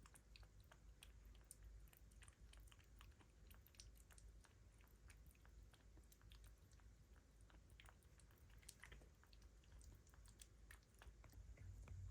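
Kitten chewing: faint, rapid, irregular small wet clicks over a steady low rumble.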